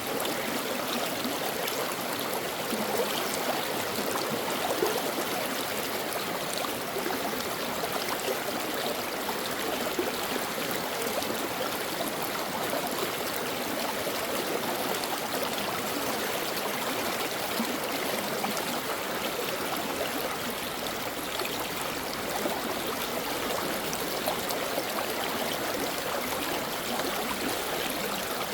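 A shallow brook running over stones, an even rush of water with many small splashes and gurgles.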